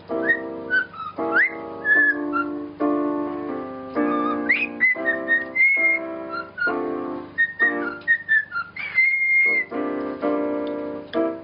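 A parrot whistling short high notes and quick upward swoops over keyboard music, with one longer held whistle near the end.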